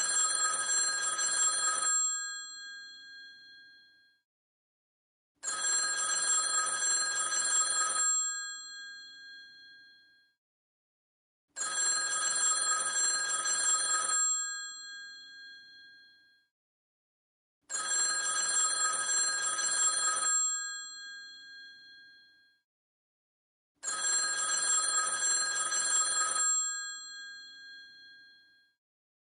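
Old telephone's mechanical bell ringing in a steady cadence: five rings of about two and a half seconds each, roughly six seconds apart. After each ring the bell tones die away.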